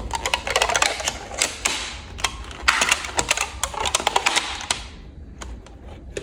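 Rapid, irregular clicking and clattering, several sharp clicks a second, thinning out after about five seconds.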